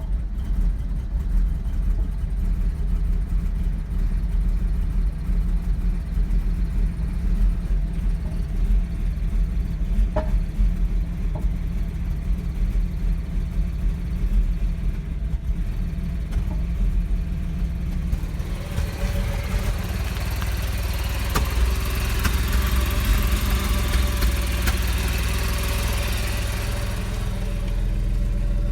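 Porsche Boxster 986 flat-six engine idling roughly with a knocking noise, soon after a cold start following months of sitting. A rushing hiss joins about two-thirds of the way through and fades near the end.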